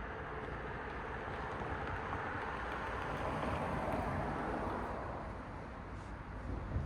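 A car passing by on the road: tyre and engine noise swells to a peak about four seconds in, then fades away. A short low thump comes near the end.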